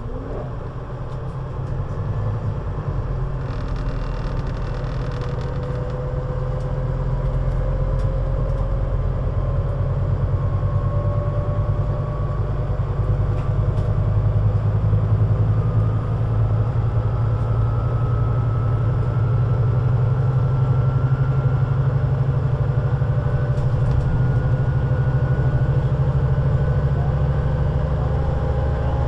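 Scania Citywide articulated bus's diesel engine pulling the bus away and gathering speed. A deep steady drone runs under a drivetrain whine that slowly rises in pitch, and the sound grows louder over the first several seconds.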